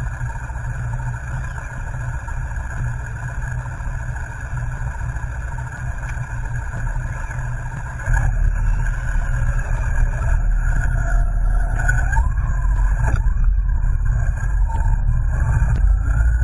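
Yamaha Venture touring motorcycle on the move: engine drone under wind rush on the mic. It gets louder about halfway through, with the engine pitch rising and falling near the end.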